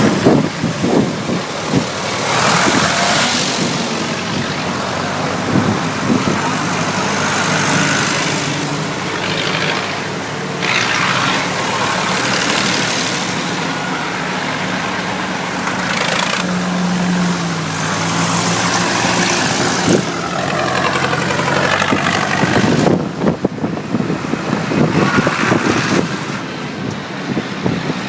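Tractor engines running, with a low engine note under a broad rushing noise that swells and fades.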